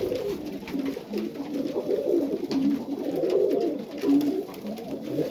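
Domestic pigeons cooing in a loft, a continuous low warbling coo with overlapping calls rising and falling.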